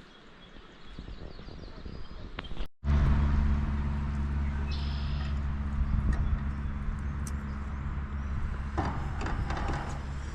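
Faint outdoor quiet with a few high chirps. After a sudden cut about three seconds in, a motor runs steadily with a low, even hum.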